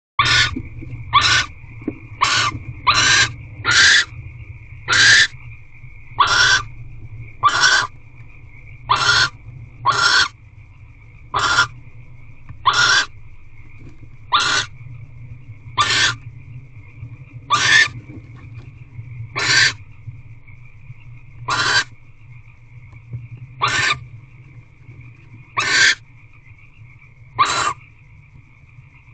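Barn owl giving a long series of short, harsh hissing calls: about twenty hisses, roughly one a second at first, slowing to about one every two seconds. A steady low hum and a faint high whine run underneath.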